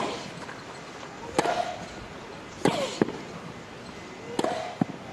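Tennis rally: racket strikes on the ball roughly every one and a half seconds, several with a short grunt from the hitting player. Lighter knocks of the ball bouncing fall between the strikes.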